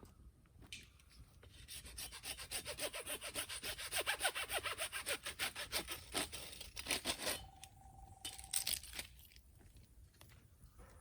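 Hand saw cutting through bamboo in quick, rhythmic back-and-forth strokes, starting about two seconds in and stopping about seven seconds in. A short, steady, single-pitched tone follows.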